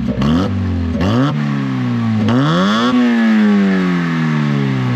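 Car engine revving loud. Its pitch rises and drops a few times, then it climbs for about a second and falls away slowly.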